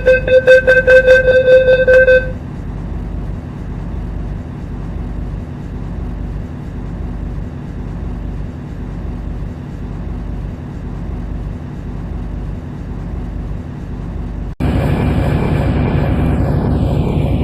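MTR C-Train door-closing warning chime: a rapid string of electronic beeps that stops about two seconds in as the doors shut. Then the train's steady low interior rumble, which near the end abruptly gets louder with a whine falling in pitch.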